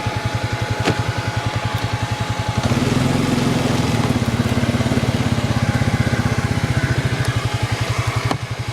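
A 2002 Arctic Cat 300 ATV's 280cc oil-cooled single-cylinder four-stroke engine running with an even, quick pulse. It gets louder under more throttle a few seconds in, then eases back near the end. It runs smoothly, like an engine in good order.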